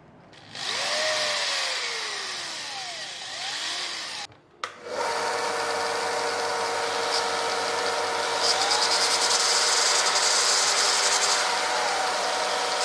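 A small power tool running on wood. It stops briefly about four seconds in, then runs steadily again.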